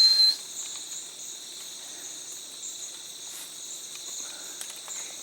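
Steady high-pitched insect chorus of the rainforest, a shrill drone in two high bands. At the very start a loud, clear high whistle holds one note and cuts off about a third of a second in.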